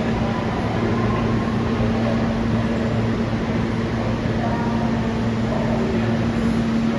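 Steady low electrical hum and rumble in an underground subway station, with faint voices of people on the platform.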